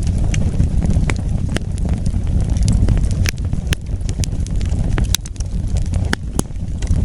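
Wood fire burning, with a low steady roar of flames and irregular sharp crackles and pops from the burning wood.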